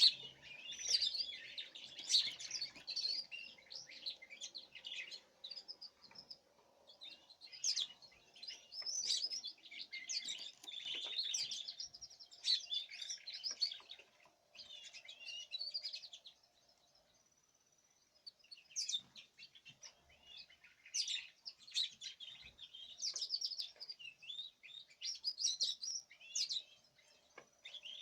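Small caged songbirds chirping and twittering in quick high-pitched runs of several seconds each, broken by a pause of about two seconds a little past the middle.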